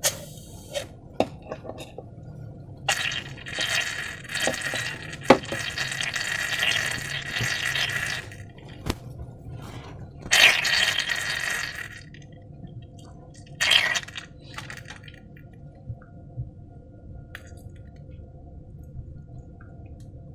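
Wet, sticky slime being squished and worked by hand in several bursts lasting a few seconds each, with small clicks and clinks in between.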